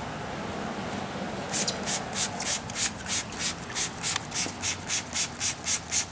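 Hand rubbing back and forth on a plastic headlight lens: a faint steady hiss, then, about a second and a half in, brisk rhythmic strokes at about three and a half a second.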